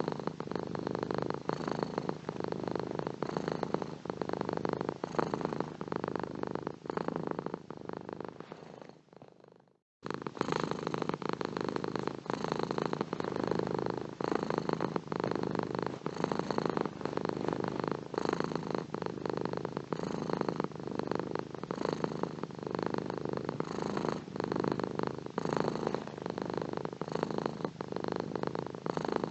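Domestic cat purring steadily, a close, even run of pulses. About nine seconds in the purr fades to a moment of silence and then comes straight back in, an edit or loop point in the recording.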